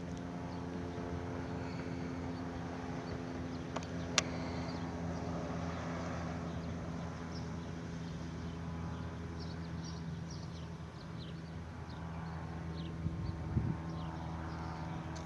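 A steady mechanical hum at one constant pitch, with a single sharp click about four seconds in.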